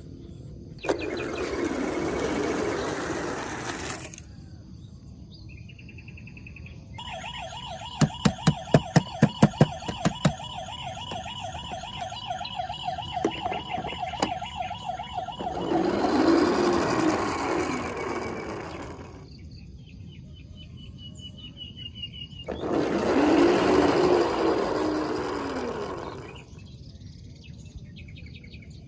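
Electronic toy siren sound, a steady wavering tone held for about eight seconds with a run of sharp clicks near its start, between three bursts of rushing noise of a few seconds each.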